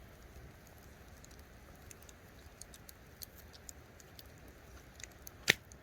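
Campfire crackling: scattered small irregular snaps and ticks over a faint steady background, with one loud sharp pop near the end.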